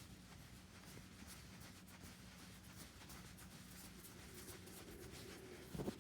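Faint scratchy rustling of loose cat fur being rolled and rubbed between hands to felt it into a ball, over a low steady hum. A brief louder bump comes near the end.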